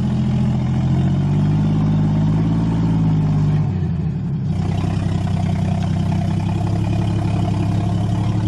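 Engine of an overloaded log truck running under heavy load. Its note changes abruptly about three and a half seconds in.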